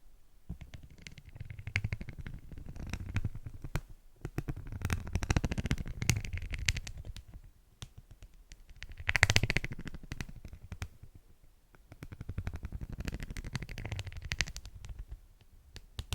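Beeswax food wrap being crinkled and handled close to the microphone: dense crackling in about four bouts, with short pauses between.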